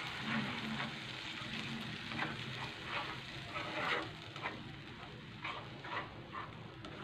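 Ground masala paste sizzling in oil in a non-stick kadhai while a spatula stirs and scrapes through it. The strokes come every half-second or so over a steady hiss of frying.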